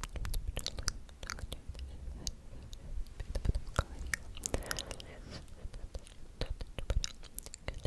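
ASMR mouth sounds: a run of irregular wet clicks and smacks of lips and tongue.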